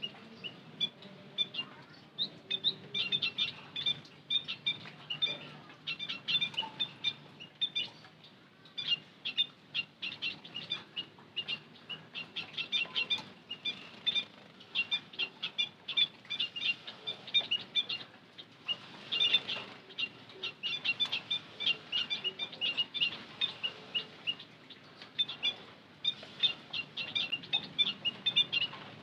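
White-headed munias chirping: many short, high chirps in quick runs, broken by brief pauses.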